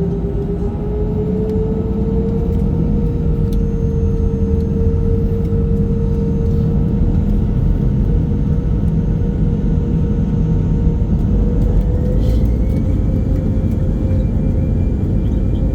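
Airbus A320 jet engines running up for takeoff: a steady loud rumble under an engine whine that rises slowly in pitch, with a higher tone climbing about twelve seconds in.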